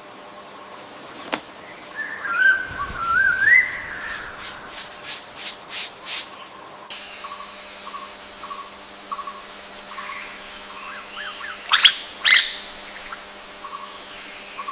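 Forest birds calling: a warbling whistled phrase, then a quick run of about six short, sharp high notes. A steady high drone comes in about halfway, with soft chirps and two loud, sharp calls near the end.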